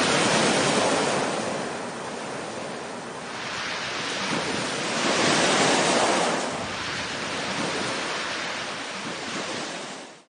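Sea waves washing onto a shore: two swells of surf about five seconds apart, each rising and falling away, with the sound cutting off suddenly at the end.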